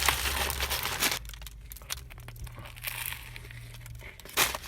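Paper sandwich wrapper crinkling and rustling, loudest in about the first second, then softer crackles and one sharp rustle near the end, over a steady low hum.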